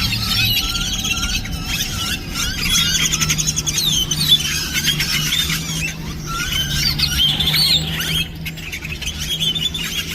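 A large mixed flock of birds calling all at once from one tree: a dense, unbroken chorus of overlapping squeals, chirps, whistles and rattling calls. A steady low hum runs underneath.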